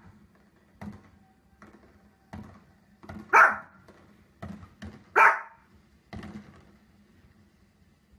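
A dog barking: two loud barks about three and five seconds in, with fainter short sounds between them.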